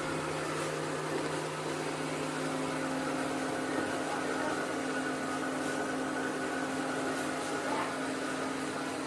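Steady electric motor hum from a robot vacuum-mop running, a constant drone with a few fixed tones over a fan-like hiss.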